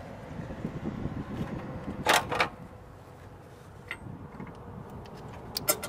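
Sharp metal knocks and clanks from the backhoe's parts being handled and fitted to the tractor: a cluster about two seconds in and another near the end, over a low steady rumble.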